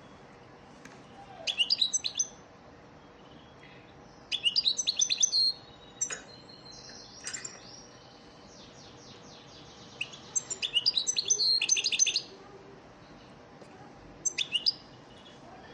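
European goldfinch singing: four bursts of rapid, high twittering phrases, with a stretch of nasal buzzing notes in the middle.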